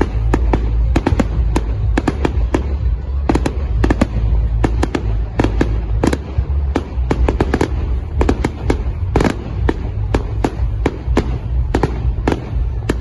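Fireworks going off: rapid, irregular bangs and crackles, several a second, over a steady low rumble.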